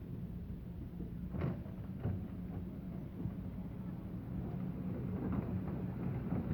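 Heavy machinery engine running steadily, with a few sharp knocks, the loudest about a second and a half in and again at two seconds.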